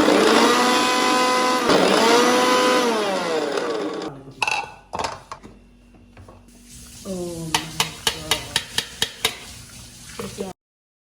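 Electric blender running, grinding perilla leaves and bethe saag into a green juice. The motor's pitch dips about a second and a half in, and the motor winds down about four seconds in. A second, shorter run follows, with a quick series of sharp clicks near the end.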